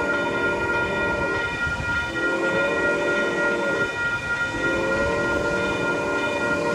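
Metrolink train's multi-note chord horn sounding three long blasts, each about a second and a half, as the train pulls away. A steady high whine runs underneath.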